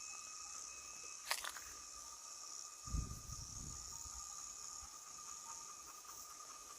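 Evening insect chorus: a steady high-pitched chirring with a lower, thinner trill that begins to pulse near the end. A sharp click about a second in and a low thump about three seconds in.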